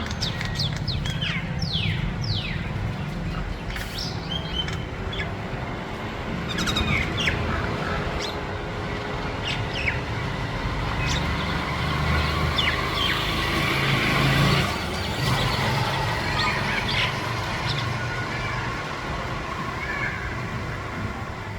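Small birds chirping, with many short falling chirps in the first few seconds and scattered calls after, over a low steady rumble.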